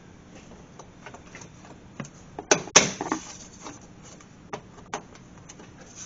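Clicks and knocks of a car's plastic under-engine cover and its fasteners being handled and pushed into place. The two loudest knocks come about two and a half and three seconds in, with lighter ticks scattered around them.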